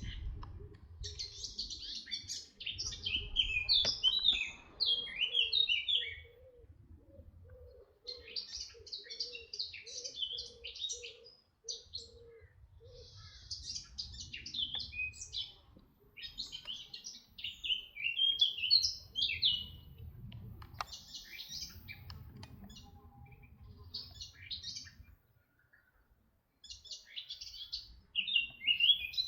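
A songbird singing in quick, high, chirping and warbling phrases a few seconds long, with short pauses between them. In the first half, a low hooting note repeats about twice a second for several seconds. A faint low rumble runs underneath.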